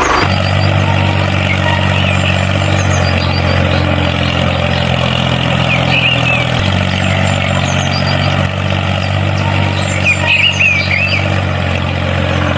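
Tractor engine running steadily, a low even hum whose pitch shifts slightly about halfway through, with a few short high chirps over it.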